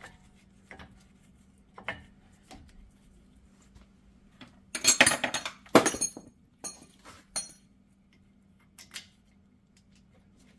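Brake caliper and hardware clinking metal on metal as the caliper is fitted back over the rotor: scattered light clicks, then a loud cluster of ringing clinks and rattles about five to six seconds in, then a few more clinks.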